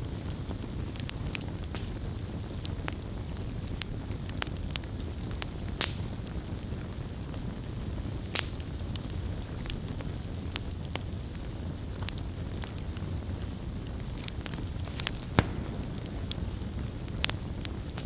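Wood campfire crackling: irregular sharp pops and snaps over a steady low rush of the burning fire, with the loudest pop about fifteen seconds in.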